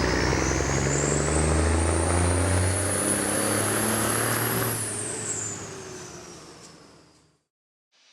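Scania 111 truck's turbocharged diesel engine pulling hard, its note rising together with a high turbo whistle. About five seconds in it backs off, the whistle falls away and the sound fades out.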